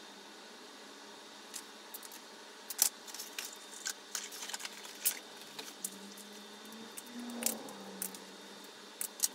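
Scattered sharp clicks and small handling noises of hand tools and electrical wire as extension cables are cut and crimped, the loudest click about three seconds in and another near the end.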